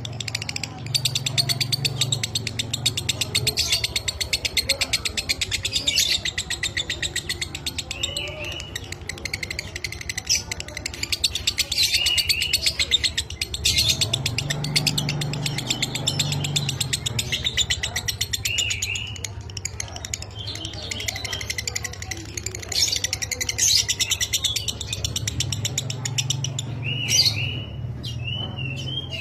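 Lovebird chattering in a long, unbroken rapid trill (the 'ngekek'), with short high chirps recurring every couple of seconds, over a steady low hum.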